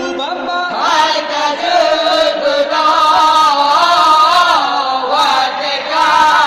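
A young man's voice chanting a melodic wake-up call for sahur, with long held notes that waver and bend.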